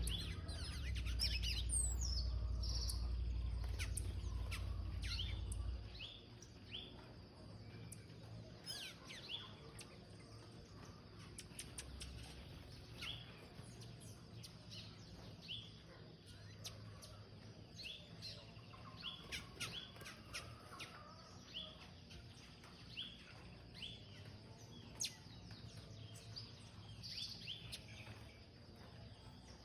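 Small birds chirping, short high chirps repeated through the whole stretch. A loud low rumble runs under them for the first six seconds, then stops.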